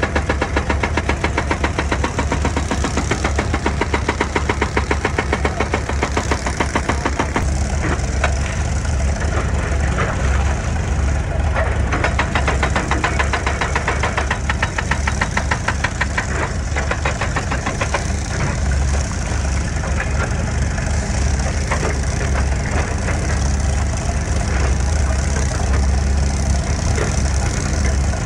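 Excavator's diesel engine running steadily with a deep drone. A fast even knocking through the first several seconds gives way to a rougher, more uneven running.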